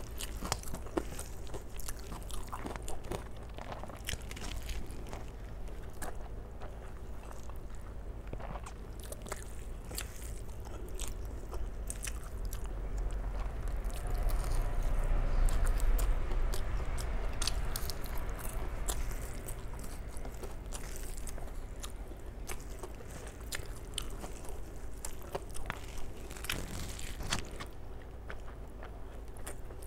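Close-miked eating sounds: chewing, wet mouth clicks and lip smacks as rice and curry are eaten by hand. A louder stretch of crunchy chewing comes about midway, when a fried fritter is bitten.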